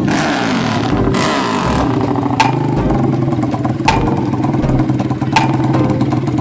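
Dirt-bike engine revving and dropping back twice in the first two seconds, then running steadily at idle.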